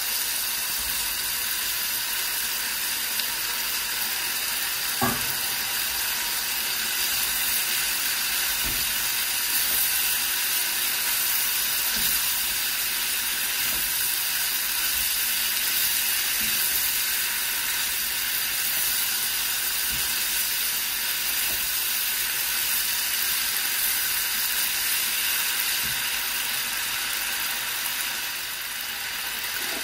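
Chicken cubes, red and green peppers and onion sizzling steadily in a frying pan as they are stirred together with a silicone spatula, with a few light knocks of the spatula against the pan.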